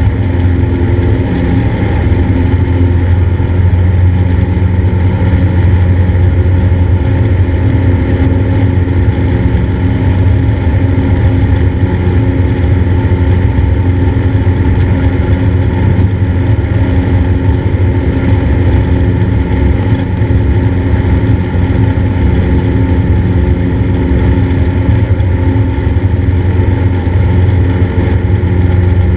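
Cessna 172's piston engine and propeller running steadily at a constant power setting.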